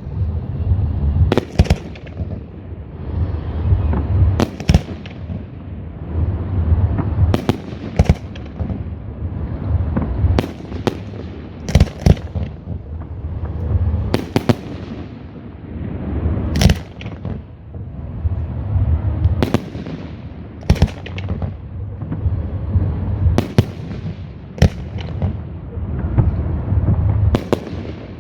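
Aerial fireworks display: sharp shell bursts every second or two, some in close pairs, over a continuous low rumble of launches and echoing booms with crackle in between.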